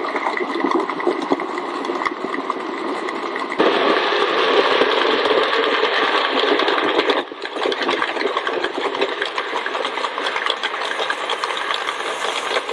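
Model railway locomotive running along the track: a steady mechanical whirr with a fine rattle of wheels on rail. The sound changes abruptly about a third and about halfway through.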